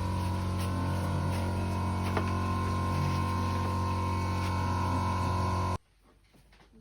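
Steady mechanical hum of a running motor, with a low drone and a thin high whine, cutting off abruptly near the end and leaving near silence.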